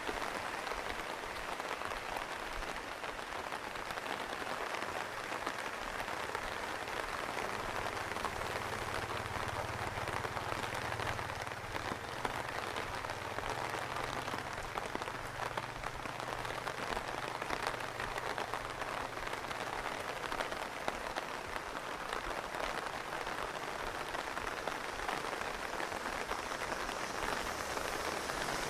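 Steady rain falling and pattering on surfaces, a dense even hiss. A faint low hum sits under it from about a quarter of the way in until about two-thirds through.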